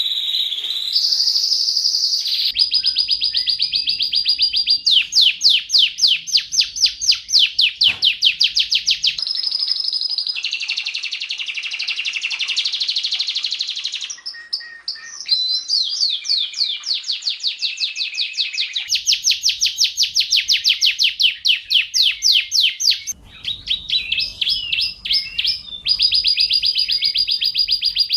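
Domestic canary singing: long, fast rolling trills of rapidly repeated high notes, switching abruptly to a new phrase every few seconds.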